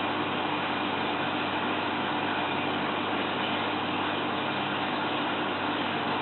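Steady mechanical hum under a constant hiss, with no change in level and no separate knocks or splashes.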